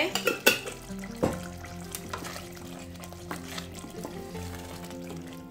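Light mandolin background music with a steady melody, under a wooden spoon stirring a thick porridge in a steel pot, with a few sharp knocks in the first second or so.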